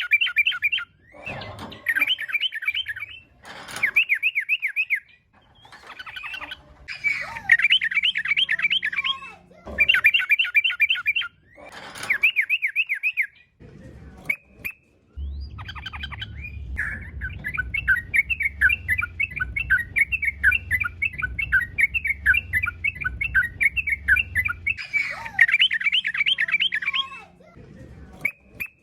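Sooty-headed bulbul singing in repeated short bursts of quick, chattering notes, with a longer unbroken run of song from about halfway. A low rumble sits underneath that longer run.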